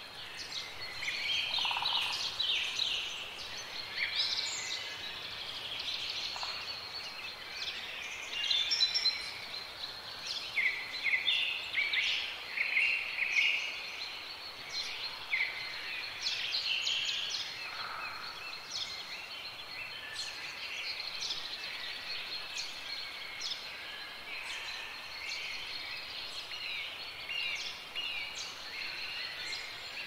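Small birds chirping and twittering in quick, overlapping short calls, busiest around the middle, with a thin steady high tone underneath.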